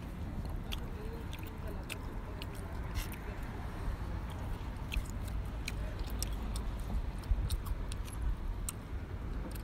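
A person chewing grilled camel meat close to the microphone, with many small, sharp mouth clicks, over a steady low background rumble.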